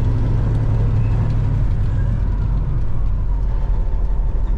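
Semi-truck diesel engine running, heard from inside the cab as a steady low rumble.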